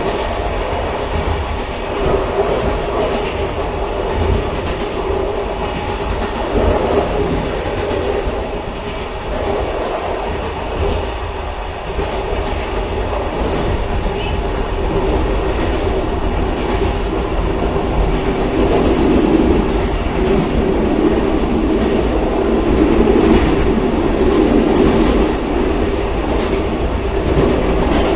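Railcar running along the track: steady rumble of wheels on rails with a faint clickety-clack of rail joints, growing a little louder in the second half.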